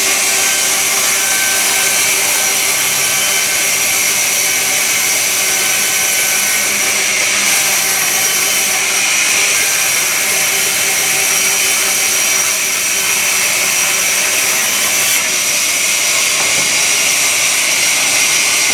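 Sawmill saw machinery running steadily, a loud continuous noise with a high whine over it.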